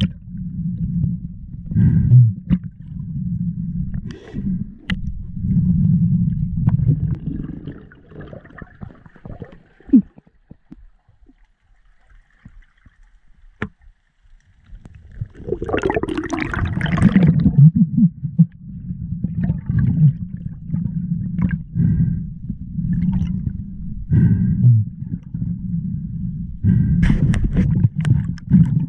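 A snorkel diver's breathing and water gurgling against the camera microphone, coming in low, uneven surges. The surges stop for a few seconds in the middle, then return after a louder, hissing gurgle about 16 seconds in.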